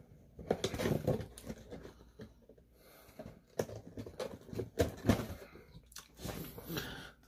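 Close-up eating sounds of someone biting into and chewing crispy Korean fried chicken: irregular crunches and wet mouth noises, with short pauses between bites.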